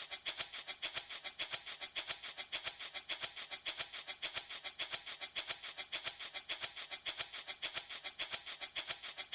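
Handmade baby rattle shaken steadily in a fast, even rhythm of several bright rattling shakes a second, used as a soothing sleep sound.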